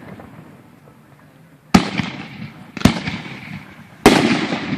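Aerial firework shells bursting: three sharp booms about a second apart, starting a little under two seconds in, each trailing off.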